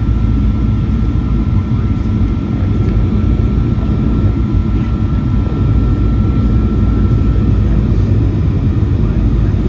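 Steady low rumble of engines and airflow inside a Boeing 737-800's cabin, with a thin steady whine that fades out near the end.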